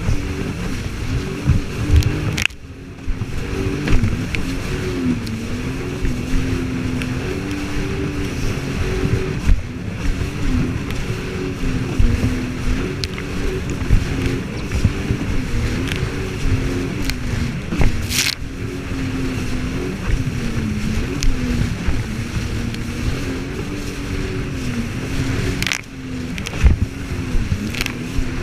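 Jet ski engine running steadily, its pitch wavering up and down with the throttle, with a few sharp knocks along the way.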